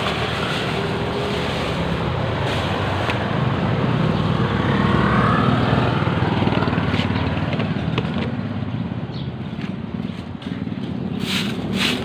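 A road vehicle runs steadily, giving continuous engine and road noise that swells somewhat around the middle. Quick, evenly spaced ticks start near the end.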